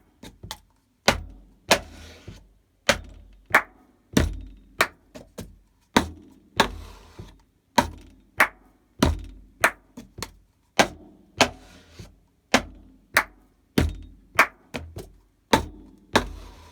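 Cup rhythm played on a tabletop: a steady repeating pattern of the cup knocked down on the table, hand claps, the cup struck against the palm and set down again, and the cup slid across the table with a short brushing sound. The pattern comes round about every five seconds, four times over.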